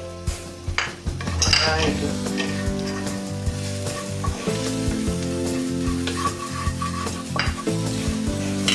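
Chopped onion, capsicum and tomato sizzling in oil in a nonstick frying pan while being stirred with a wooden spatula, which scrapes and taps against the pan. The spices have just been added. Background music plays underneath.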